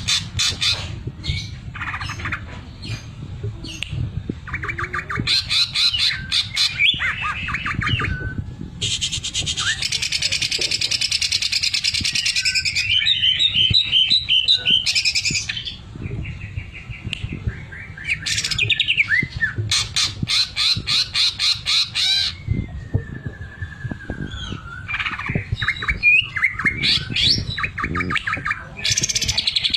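Cucak ijo (green leafbird) singing a loud, varied song. It runs fast rattling trills of rapid ticks, the sewing-machine ('mesin jahit') phrase it mimics, with a long dense buzz near the middle and a few gliding whistles later on.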